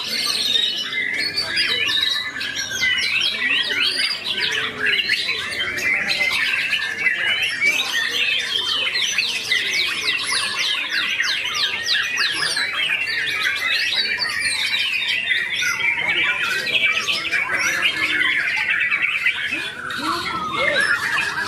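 A white-rumped shama (murai batu) singing continuously: a fast, varied stream of whistles, harsh chattering notes and rapid trills, busiest around the middle.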